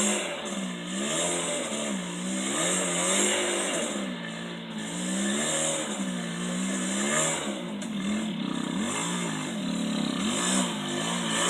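Dirt bike engine revving up and down over and over, its pitch rising and falling about once every second or so.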